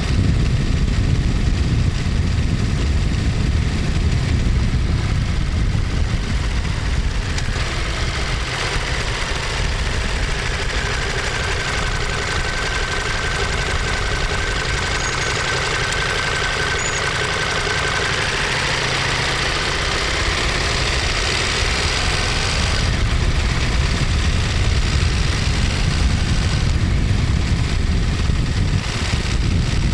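Ducati Monster 1200S's 1198 cc L-twin engine running with a steady low exhaust beat. A rushing noise with a faint whine swells from about a quarter of the way in and fades out about three quarters of the way through.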